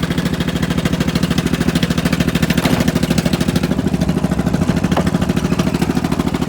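Liquid-cooled, fuel-injected 22 horsepower Kawasaki V-twin engine of a John Deere 445 garden tractor running steadily with an even, rapid pulse.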